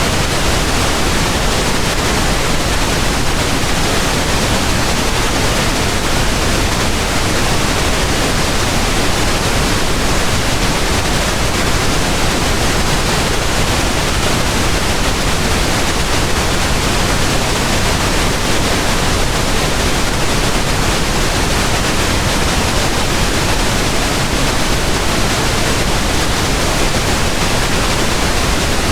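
Pink noise: a steady, even hiss across all pitches, constant in level throughout.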